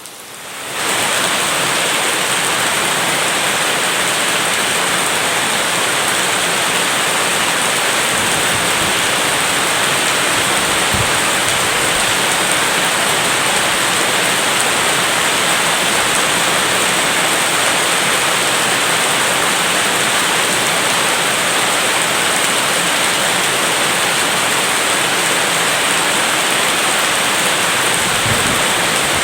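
Steady downpour of rain, an even hiss that fades in over the first second and then holds level.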